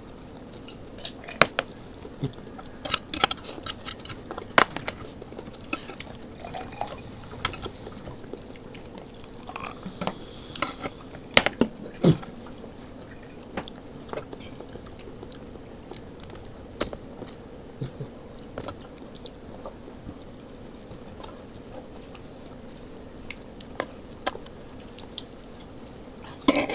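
People chewing and slurping food close to the microphone, with occasional clicks of chopsticks or cutlery against dishes; busier in the first half, sparser later.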